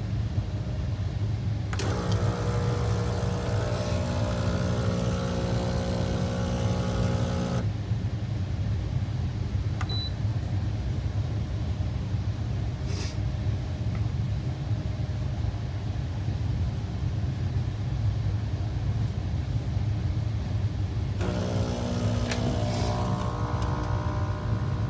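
Espresso machine running with a steady low hum. A pitched motor whine comes in about two seconds in, stops after about six seconds, and starts again near the end.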